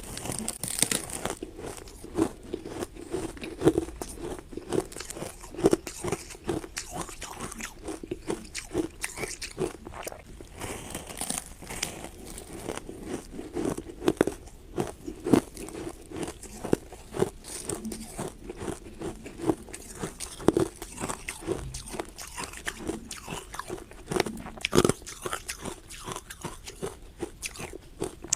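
Ice being bitten and chewed close to the microphone: a dense, irregular run of crisp crunches and cracks that never lets up.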